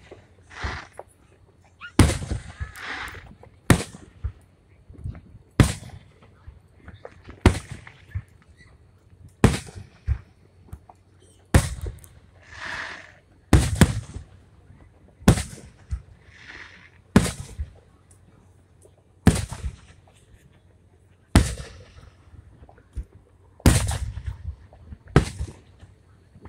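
Aerial fireworks shells bursting overhead: a steady series of sharp booms about every two seconds, each with a short echoing tail.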